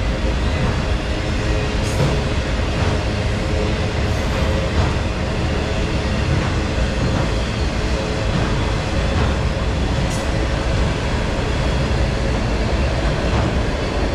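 Norfolk Southern autorack freight train rolling past with a steady, loud rumble. Occasional clicks from the wheels passing over rail joints are heard now and then.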